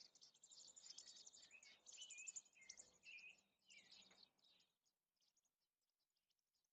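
Faint backyard birdsong: dense high chirping with several short whistled phrases, thinning out about two-thirds of the way through.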